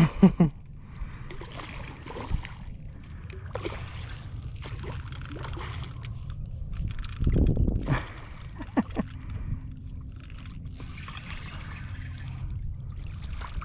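Water sloshing and splashing as a hooked redfish is brought in at the surface, over a steady low rumble of wind on the microphone, with a louder splashy stretch about seven seconds in.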